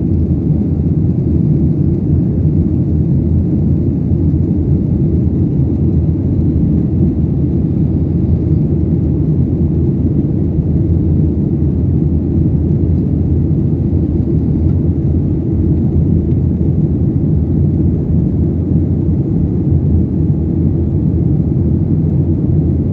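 Steady, loud low drone of an aircraft in flight, heard from inside the cabin: engine and airflow noise with no change in pitch or level.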